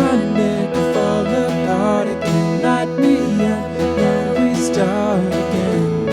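A band playing a song live, with strummed acoustic guitar and a wavering, sliding melodic line over the sustained chords.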